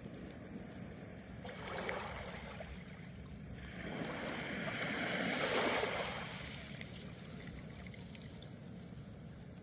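Small sea waves washing up on the shore: a steady wash with a small wave about two seconds in and a bigger one breaking and swelling between about four and six and a half seconds.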